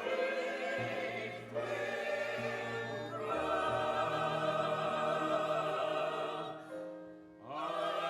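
Choir singing slow, held notes with vibrato over low sustained bass notes, pausing briefly near the end before the next phrase begins.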